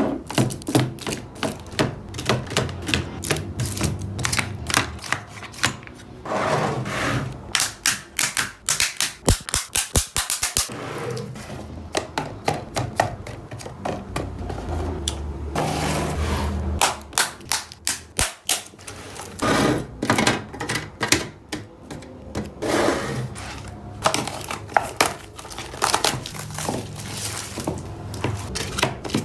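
Rapid clicks, taps and knocks of containers, lids and food items being handled and set down while a refrigerator is organized, with brief scraping and rustling between runs of taps.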